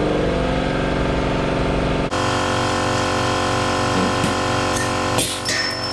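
A motor or engine running steadily, with a drone that switches abruptly to a different steady drone about two seconds in. A few short clicks come near the end.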